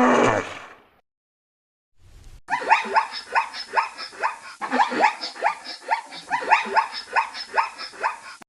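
An animal giving a rapid series of short barking calls, about two a second, after a call at the very start and a brief silence.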